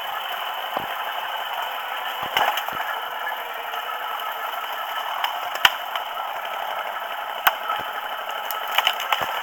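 Quad bike (ATV) riding over a rough trail: a steady rushing noise with ongoing rattle and clatter, and a sharp knock every second or two from bumps.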